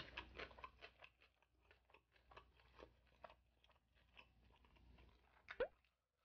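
Faint chewing of a mouthful of boneless barbecue-sauced chicken, mouth closed: many small wet clicks, thick at first and thinning out, with one sharper click near the end.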